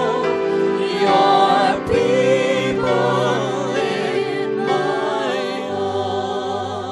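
Choir singing a slow worship song with vibrato over sustained accompaniment, fading down near the end.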